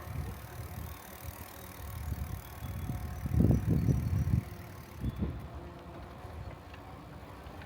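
A bicycle rolling along a smooth paved trail, with tyre noise and wind rumbling on the microphone. A louder low rumble lasts about a second midway.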